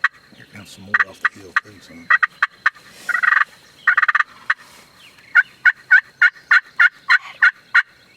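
Wild turkeys calling close by: scattered clucks and gobbles, with a rattling gobble about three seconds in, then a hen yelping a steady run of about ten yelps in the second half.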